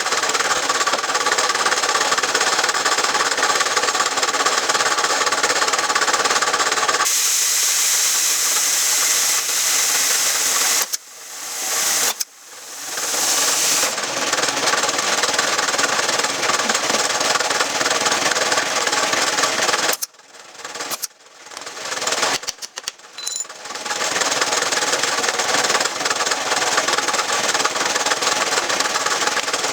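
Handheld electric power tool running at a steady speed, its hum and hiss changing about a quarter of the way in. It is switched off and on several times, spinning back up after each stop.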